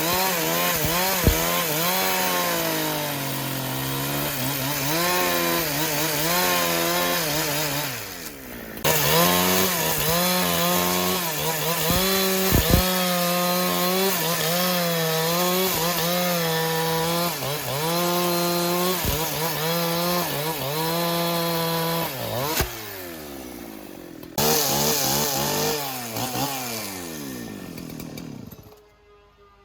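Two-stroke chainsaw cutting wood at high revs, its engine pitch wavering as the chain bogs in the cut and recovers. The revs drop briefly twice and come back up, then fall away near the end.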